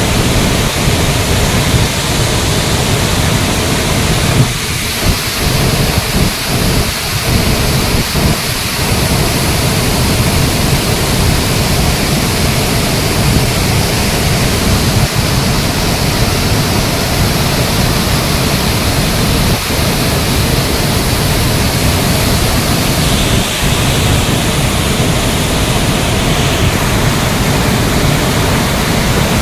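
Budha Ghagh waterfall: a loud, steady rush of falling water, a dense even noise that does not let up.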